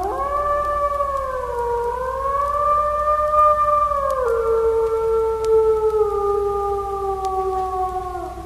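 One long canine howl. It swoops up at the start, wavers, drops a step in pitch about halfway through, then sinks slowly until it breaks off near the end.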